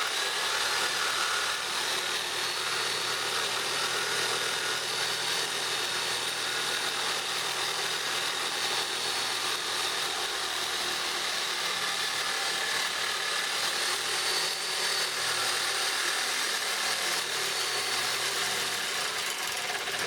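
Reciprocating saw with a new Milwaukee blade running steadily as it cuts through a seized exhaust joint where the Y pipe meets the exhaust pipe.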